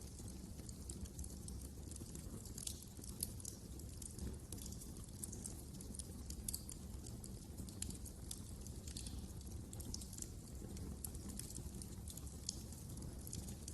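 Wood fire crackling, with frequent irregular sharp snaps and pops over a low steady rumble of burning.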